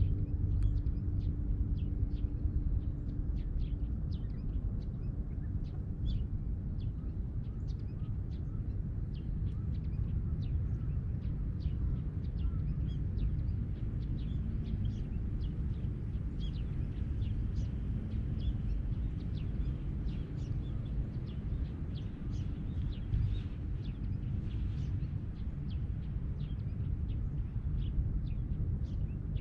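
Wood fire burning in a small portable fire stand, with many irregular small crackles and pops over a steady low rumble.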